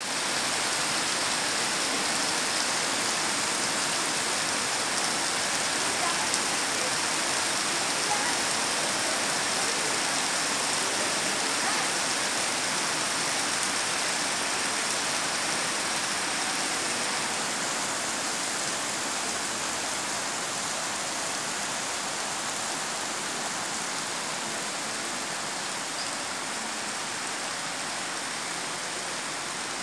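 Heavy monsoon rain pouring down in a torrential downpour, a dense steady hiss of rain hitting surfaces, easing slightly in loudness toward the end.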